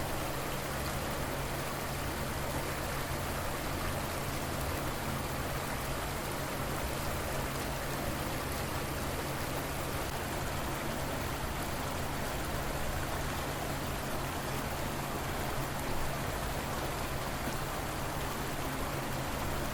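River water flowing, a steady even rush of water with no breaks or changes.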